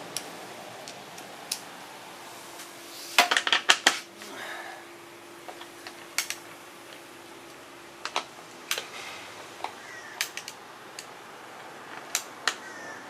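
Metal hand tools clinking and clattering against motorcycle parts: a quick flurry of sharp clanks about three seconds in, then scattered single clicks.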